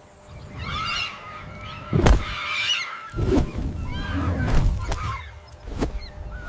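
Birds calling in short repeated calls over a low rumble, with one sharp crack about two seconds in.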